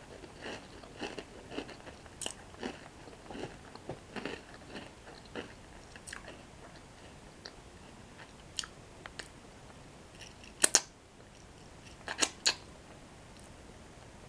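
Close-up chewing of crunchy toasted bread sticks, with many small crisp crunches for the first half, then fewer. Two loud sharp snaps about ten seconds in, and another few a second and a half later, are the loudest sounds.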